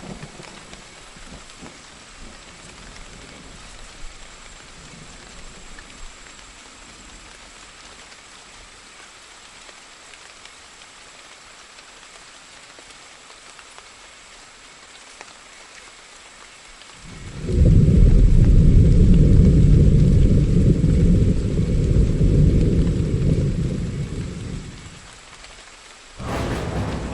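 Steady rain hiss. About two-thirds of the way through, a long low thunder rumble rises suddenly, lasts about eight seconds and fades away. Just before the end, a sudden sharp thunderclap begins.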